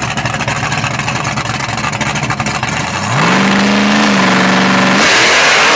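Fox-body Mustang drag car's engine running with a choppy rhythm, then revved up about three seconds in and held at a steady high pitch for about two seconds. A louder, harsher rush follows near the end.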